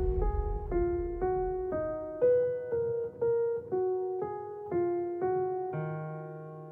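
Music: the outro of a song played on piano, single notes about two a second over a fading low beat, slowly fading out and ending on a held chord near the end.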